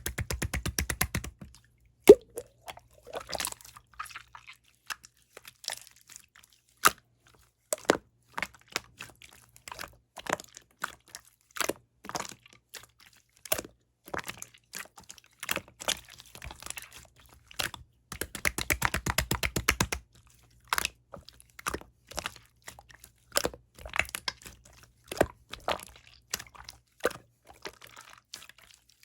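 Clear slime being squished, poked and stretched by hand, giving sharp sticky clicks and pops from trapped air. There are fast runs of rapid clicking at the start and again about two-thirds of the way through.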